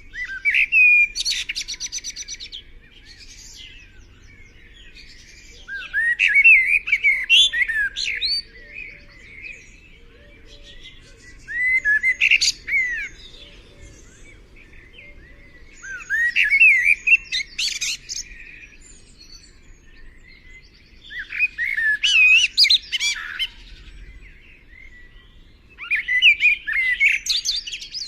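A songbird singing complex phrases of quick, gliding, whistled notes, about two to three seconds long, repeated six times at roughly five-second intervals.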